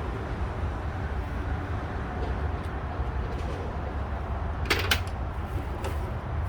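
Steady low rumble in the background, with two quick sharp clicks close together about five seconds in and a fainter one a second later, from parts or tools being handled.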